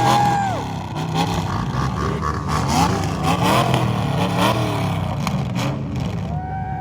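Vehicle engines revving, the pitch climbing and dropping again and again, with one rev held high for about half a second at the start and another near the end.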